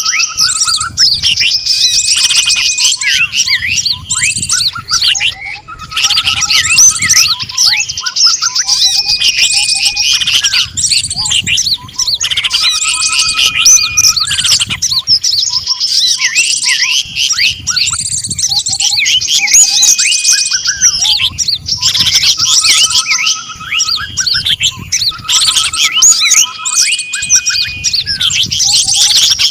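Dense, loud chirping and trilling of several small songbirds mixed together, with steady whistled notes. This is a bird-trapping lure track, and the same short sequence repeats in a loop every four to five seconds.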